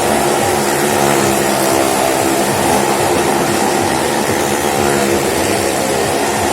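Motorcycle and car engines running steadily at high revs as they circle the wall of a well-of-death stunt drum, a loud, continuous drone.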